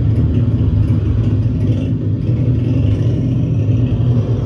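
A steady, loud low rumble with a fluttering, engine-like texture and no distinct events.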